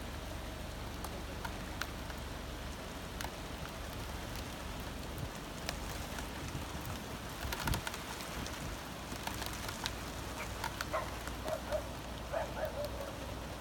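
Steady rain falling, with scattered drops tapping close by over a constant low rumble.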